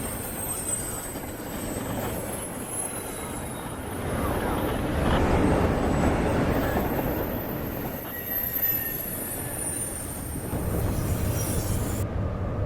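Freight train rolling past, its steel wheels giving off thin high squeals against the rail over a steady rumble of the cars.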